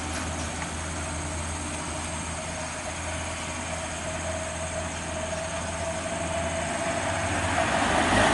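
Heavy vehicle engine running with a steady low drone and a faint whine, growing louder over the last few seconds as it comes closer or works harder.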